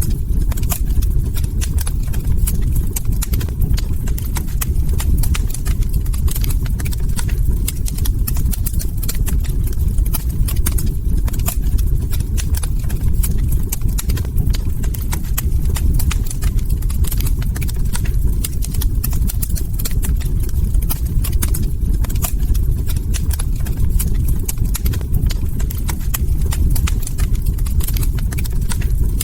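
Log fire crackling: a dense, irregular run of sharp snaps and pops over a steady low rumble of the burning.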